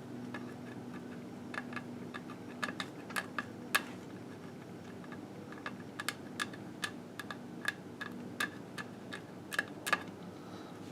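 Irregular light clicks and taps from hand cleaning work on a Harley engine case, some single and some in quick clusters, over a steady low hum.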